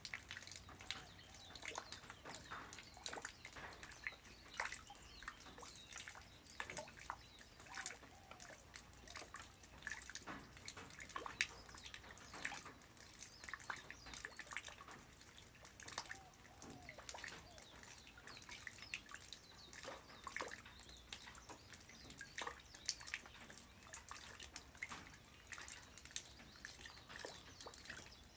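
Light rain falling on the ground: a faint, dense patter of separate drops, with a louder drip now and then.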